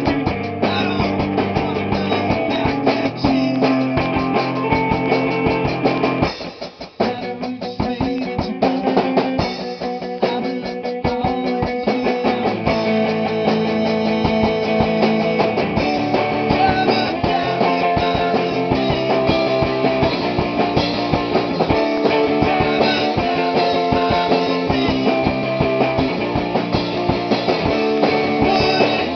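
Rock band playing a song at rehearsal: distorted electric guitar and drum kit going together. There is a brief drop about six seconds in before the full band comes back in.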